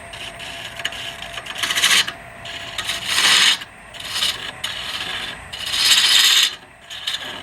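Wood lathe turning a wooden blank while a handheld turning tool cuts it: a series of short hissing cuts, each under a second, with the loudest about two, three and six seconds in. A faint steady lathe hum runs underneath.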